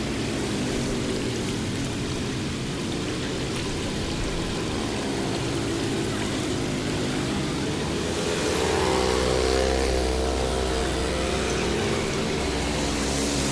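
Motor vehicle engines running, with one engine coming in louder and deeper about two-thirds of the way through.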